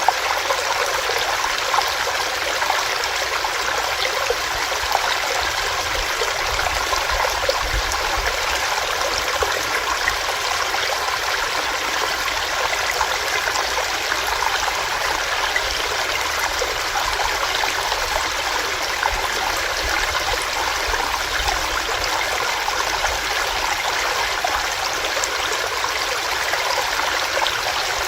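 A small stream running steadily over rocks, a continuous even rush of water.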